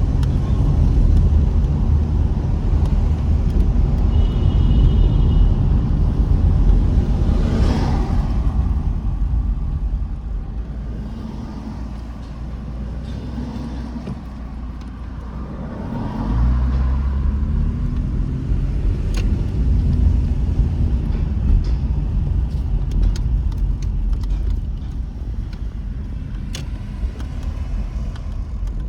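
Car on the move: a steady low engine and road rumble that eases off in the middle, then picks up again about halfway through with the engine note rising as it accelerates.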